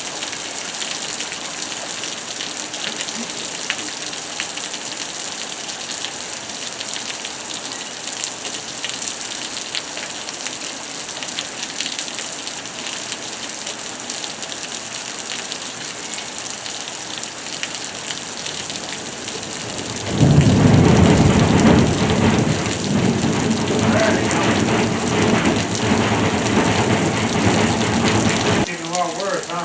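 Rain falling steadily in a thunderstorm. About two-thirds of the way through, a long rumble of thunder sets in, loudest at its onset, and it dies down shortly before the end.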